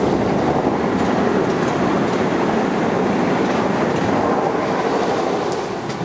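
Train passing on the line below: a steady, loud noise of wheels running on the rails that starts to fade near the end.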